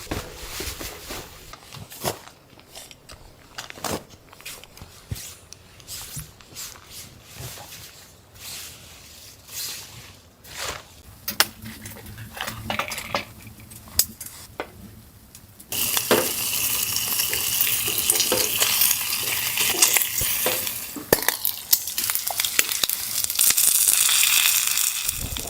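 Scattered light clicks and knocks, then a dense crackling, sizzling hiss that starts suddenly about 16 seconds in and runs on loudly.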